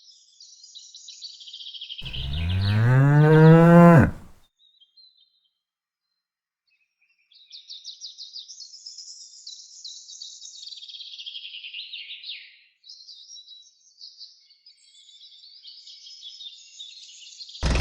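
Birds chirping, broken by one loud, long, low animal call lasting about two seconds that rises and then falls in pitch. A few seconds of dead silence follow before the chirping resumes, and a small engine starts at the very end.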